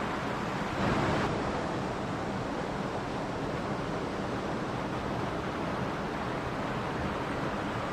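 Mountain stream flowing in a steady rush of water, with a brief louder surge about a second in.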